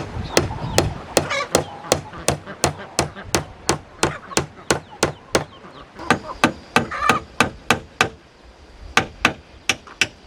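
A hand tool striking wood again and again, about three to four even blows a second, pausing for about a second near the end before starting again.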